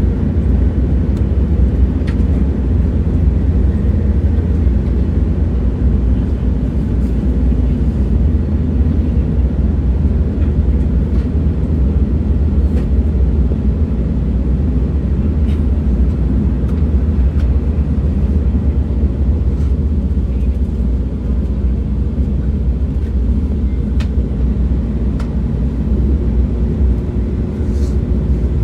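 A train running: a steady low rumble with a few faint clicks scattered through it, and a faint steady hum that comes in near the end.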